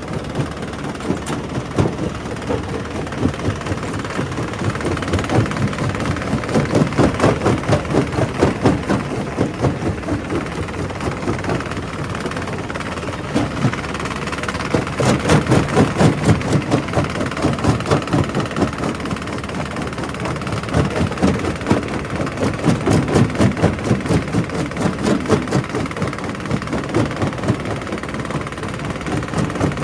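Primary rock crusher breaking stone: a continuous heavy rumble with rapid clattering and knocking of rock being crushed, swelling louder in several stretches.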